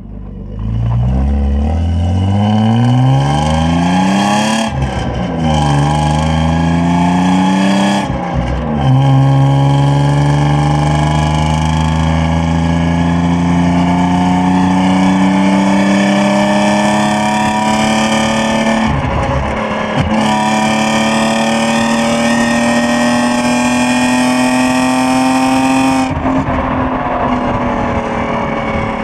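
BMW E36 320i's 2.0-litre straight-six accelerating hard through the gears. The engine note climbs steadily in each gear and drops sharply at each upshift, several times over, with the longest pull in the middle.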